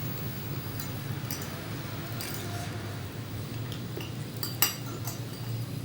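Eating utensils clinking against a dish several times while eating, with one sharper clink about four and a half seconds in, over a steady low hum.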